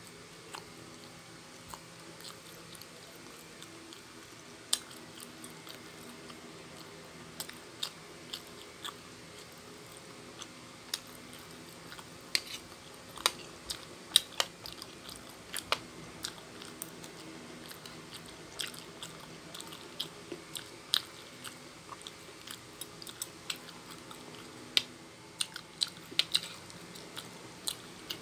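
A person chewing food close to the microphone: irregular sharp mouth clicks and smacks, a few of them louder, with no talking.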